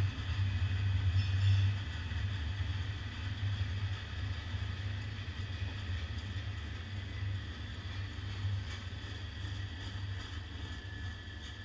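Freight train cars, tank cars and covered hoppers, rolling slowly along the track with a steady low rumble that fades as the end of the train draws away. A faint, thin, steady high tone comes in near the end.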